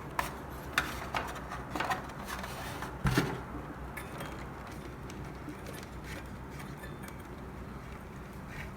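Light clicks and knocks of hands handling a hose and parts inside an opened espresso machine, several in the first three seconds and the loudest about three seconds in, over a steady low hum.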